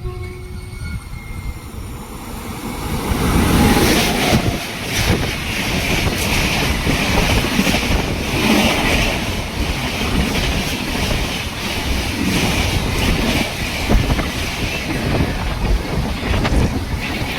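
Train passing at speed: a horn note dies away in the first second or so, then a loud rushing rumble of the train builds about three seconds in and keeps going.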